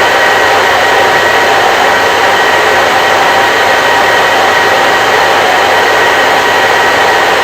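Hair dryer running steadily, a loud, even rushing noise with a faint whine in it.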